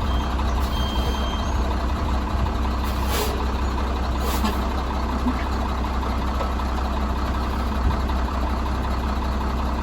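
Heavy military truck's Cummins six-cylinder turbo diesel running steadily with a deep rumble, with two short hisses about three and four seconds in.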